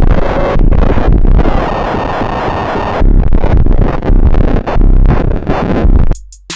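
Harsh, dense noise music from a guitar recorded direct into a DAW with no amp and heavily processed, chopped by many brief dropouts in its second half. It cuts off suddenly about six seconds in, and sparse drum-machine hits with deep bass begin.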